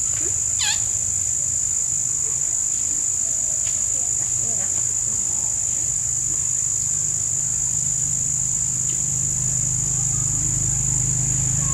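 Insects chirring in one steady, unbroken high-pitched drone. A low hum underneath grows louder near the end.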